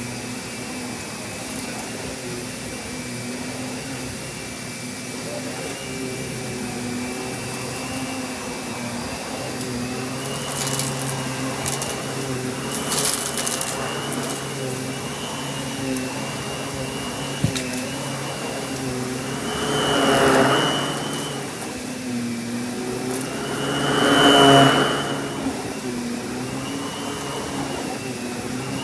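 Kenmore canister vacuum cleaner running, with a steady motor whine over rushing air that wavers slightly in pitch. It swells louder twice in the last third.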